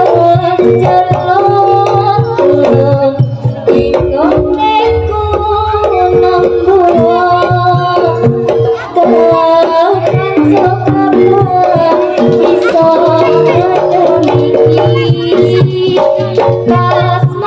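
Jaranan ensemble music: hand-drum (kendang) beats drive a steady rhythm under repeated tuned metallophone and gong notes, with a wavering melody line on top.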